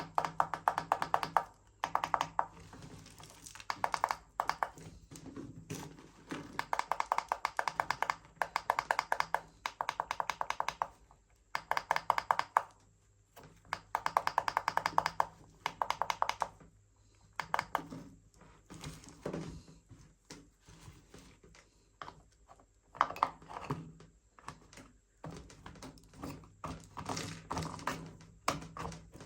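Plastic R/C toy car remote controller being cleaned and handled: rapid clicking and scratching in runs of a second or two, with short pauses between them.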